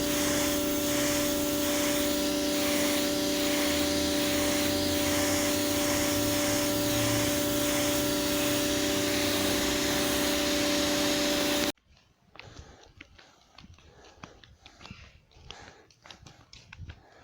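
Pressure washer running steadily: a motor hum with a few fixed tones under the hiss of the spray. It cuts off abruptly about twelve seconds in, and quieter, irregular clicks and rustles follow.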